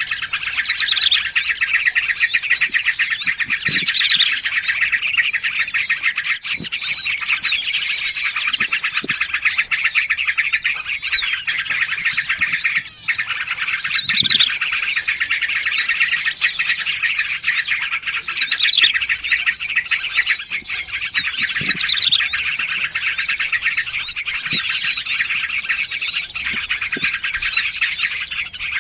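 Dense chorus of small songbirds chirping and trilling over one another without a break. It is a layered bird-lure track mixing yellow-vented bulbul (trucukan) and prinia (prenjak) calls, and it repeats about every 14 seconds.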